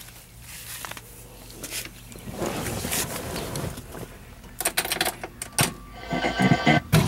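Clicks and rustling in the cabin of a 1965 Ford Falcon, then near the end a quick run of knocks as the starter cranks its six-cylinder engine, which catches almost at once and starts easily.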